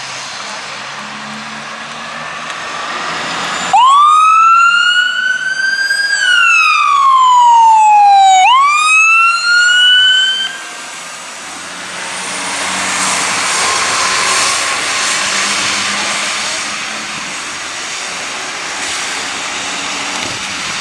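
Fire engine siren wailing. It starts suddenly about four seconds in, rises, falls and rises again over about seven seconds, then stops. A loud, even rushing noise follows.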